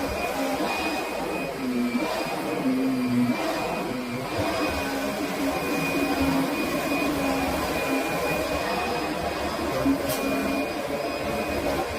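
Kirby Sentria upright vacuum cleaner running steadily, its motor giving a constant whine.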